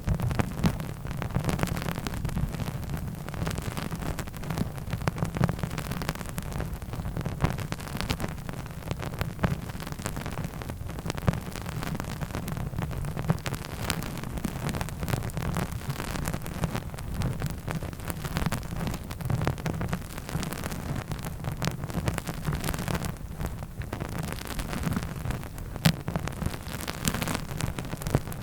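Close-miked ASMR trigger sounds: a steady, dense crackle of many small taps and clicks with no pauses.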